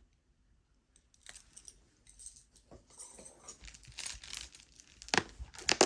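Pieces of jewelry handled and clinking together: quiet scattered clicks and rustles, with two sharper clicks near the end.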